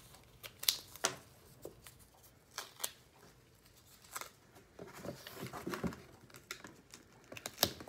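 Adhesive tape being pulled and torn in short, sharp rasps, with small handling clicks and rustles in between.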